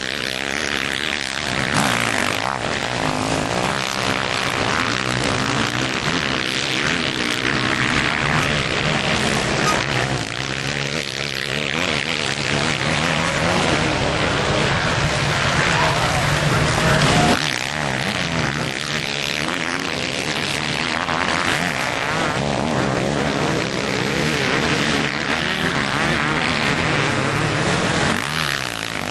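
Motocross bike engines revving hard, pitch rising and falling continually as the bikes race around the track, with a sudden change in the sound about seventeen seconds in.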